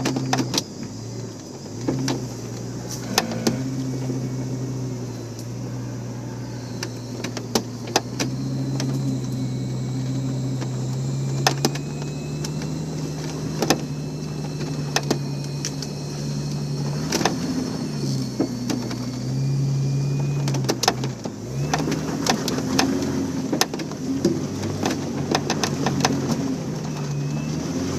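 An off-road 4x4's engine working up a rough trail, its note rising and falling with the throttle. Frequent sharp clicks and knocks ring out over it.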